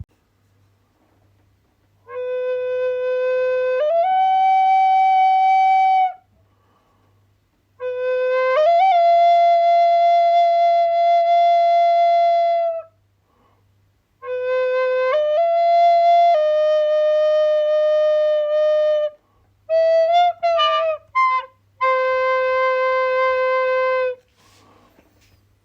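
A flute played slowly in five phrases of long held notes, each stepping between a few low notes with small slides in pitch, separated by short pauses. The fourth phrase is broken into quick short notes with a little ornament before a final long held note.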